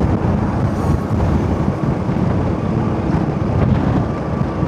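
Motorcycle riding over a rough, potholed road: steady engine and road rumble with heavy wind buffeting on the microphone.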